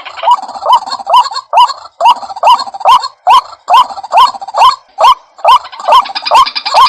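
White-breasted waterhen (ruak-ruak) calling: a loud, harsh note repeated over and over, about two to three calls a second, each with a quick upward hook.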